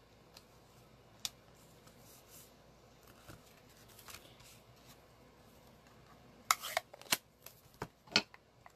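Paper and craft supplies being handled on a tabletop. Quiet rustling and a few light clicks give way, about two-thirds of the way in, to a quick run of sharp snips and clicks.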